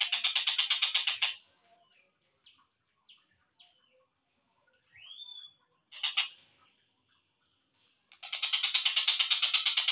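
Slowed-down recording of tengkek buto (kingfisher) calls: a fast, even rattle of notes, about eight a second, for a second or so, then short scattered chirps and one rising whistled note, a brief burst, and the rattle again for the last two seconds.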